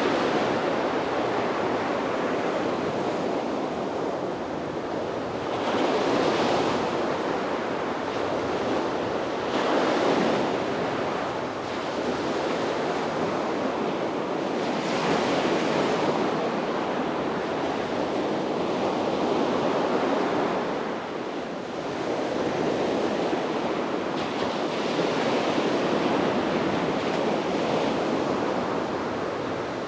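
Sea waves breaking and washing onto a beach, each surge swelling and fading every four to five seconds over a steady rush of surf, with some wind on the microphone.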